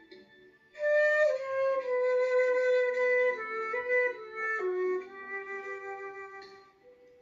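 Flute playing a slow melody of long held notes with small slides between them over a soft backing accompaniment. The flute comes in about a second in and breaks off near the end, leaving only the faint accompaniment.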